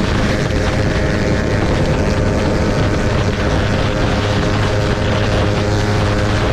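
Motorcycle engine running at a steady speed, a constant drone with no revving or sudden impacts.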